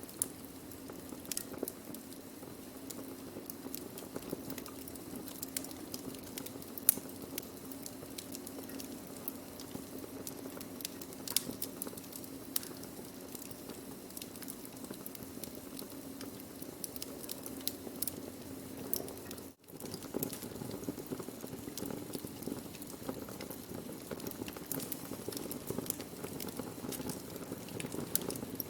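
Wood fire burning: a steady low rush with irregular sharp crackles and pops. There is a brief break in the sound about two-thirds of the way through.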